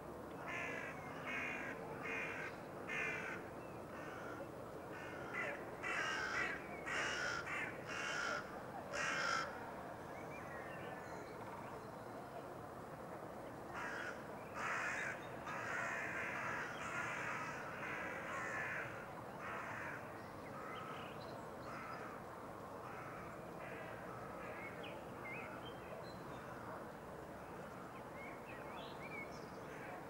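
Harsh cawing bird calls repeated in a long series, roughly two a second. They come in two bouts, the second starting about halfway through, and a few fainter calls follow.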